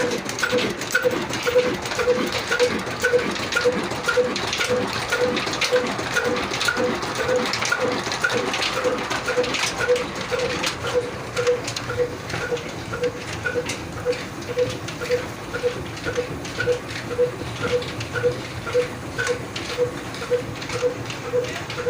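A Kala slow-speed single-cylinder diesel oil engine running steadily, with an even beat of about two to three pulses a second and sharp ticks over it.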